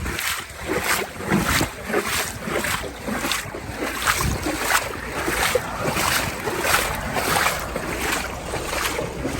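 Wading strides through knee-deep floodwater: the water sloshes and splashes with each step, about three steps every two seconds, with wind buffeting the microphone.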